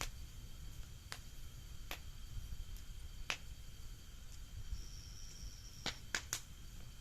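Bonfire wood crackling: scattered sharp pops, three of them in quick succession near the end, over a low steady rumble.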